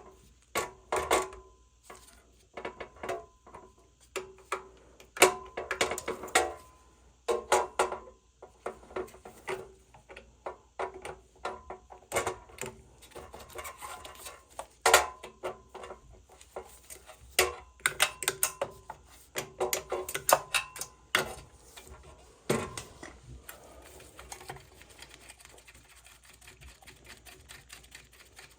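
Irregular metallic clinks, knocks and rattles of hand tools against oil-burner parts as the burner is taken apart, some strikes ringing briefly. The clatter thins out and goes quiet for the last few seconds.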